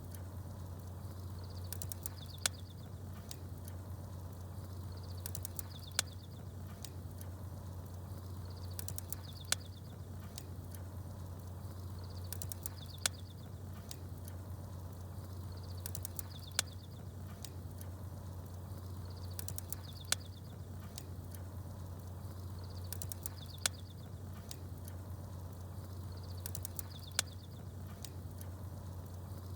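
Campfire crackling with small birds chirping, a steady low rumble under it. A sharp pop about every three and a half seconds, with short high chirps repeating on the same spacing.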